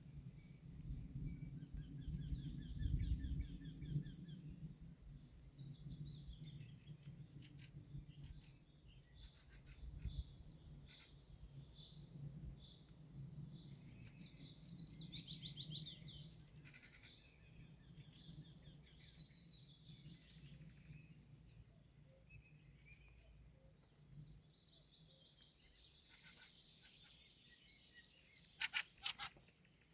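Several wild songbirds singing and calling in short, varied phrases over a low rumble that fades after the first few seconds. A quick cluster of loud, sharp clicks comes near the end.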